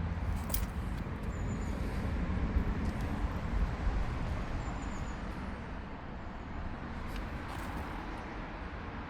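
A motor vehicle engine running with a steady low rumble, easing slightly in level about two-thirds of the way through, with a few faint clicks.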